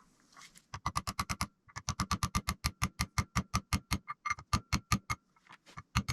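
Rapid, even light taps, about seven or eight a second, driving the planer's cutter-head bearing down onto the shaft of the new helical cutter head. The taps pause briefly near the end, then a few more follow.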